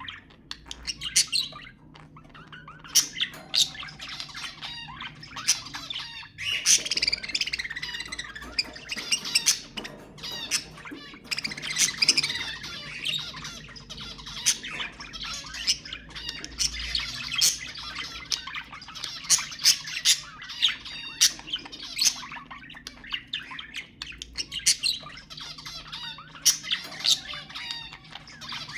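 Budgerigars chattering: continuous warbling with frequent sharp squawks and chirps.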